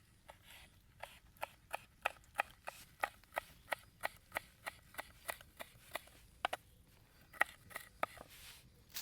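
Light, sharp taps in an even run of about three a second, pausing about six seconds in, with a few more near the end.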